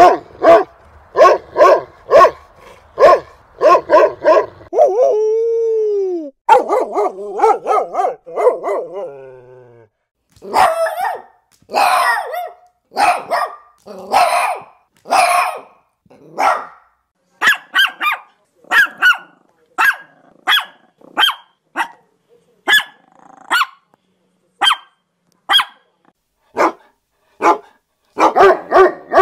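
Dogs barking over and over, about two barks a second at first, then more spaced out, about one a second. About five seconds in comes a single drawn-out call that rises and falls, followed by a dense run of barking.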